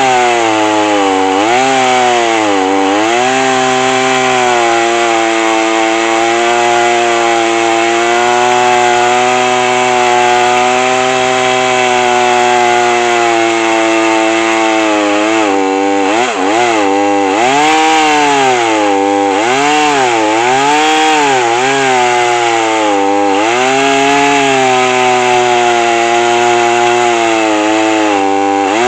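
Gas chainsaw running at full throttle in an Alaskan chainsaw mill, ripping along a log. Its engine note is steady for a long stretch, then sags and recovers again and again through the second half as it bogs under the load of the cut.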